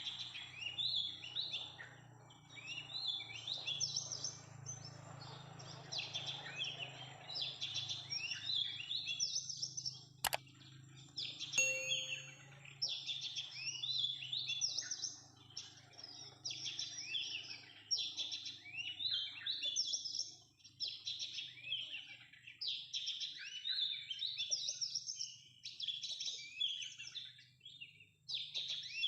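Oriental magpie-robins calling, a dense run of short, closely repeated high chirps that goes on almost without a break. A single sharp click sounds about ten seconds in.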